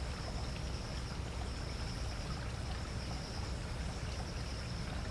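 Water trickling steadily at a wetland, with a continuous high insect drone running over it.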